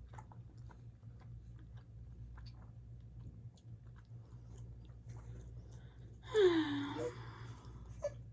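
Close-up chewing with small wet mouth clicks from someone eating. About six seconds in, a brief high voice sound, lasting under a second, that dips and then rises in pitch.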